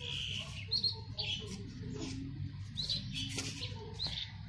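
Small birds chirping: short, high chirps every second or so, a few in quick pairs.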